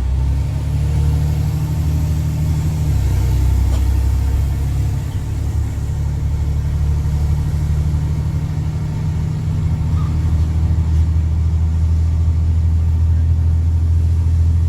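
Straight-piped Cummins C8.3 diesel in a school bus running under way, a loud deep exhaust drone. Its pitch drops about three seconds in and climbs again from about six seconds.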